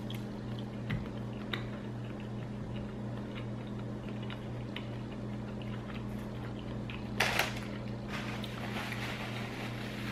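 A person chewing a bite of grilled cheese sandwich: small scattered wet mouth clicks over a steady low hum, with a short louder noise about seven seconds in. Near the end comes a soft rustle of a paper napkin wiping the mouth.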